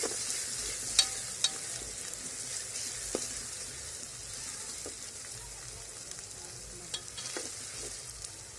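Onions and ginger-garlic paste sizzling in hot ghee while a metal spoon stirs them around a metal pot, with a few sharp clinks of the spoon against the pot. The sizzle gradually gets a little quieter.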